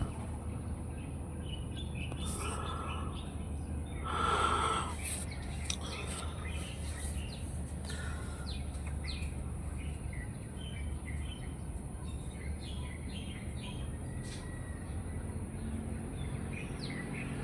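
Several birds chirping: many short, quick chirps throughout, with a louder, fuller call about four seconds in. A steady high hiss and a low rumble run beneath them.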